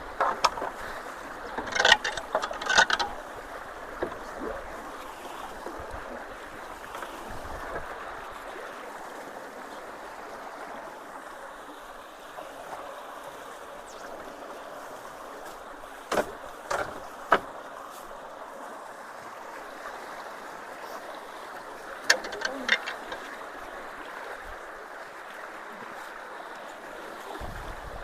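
Steady rush of water flowing through a road culvert. Three short clusters of sharp knocks and clatters break in: near the start, about sixteen seconds in, and about twenty-two seconds in.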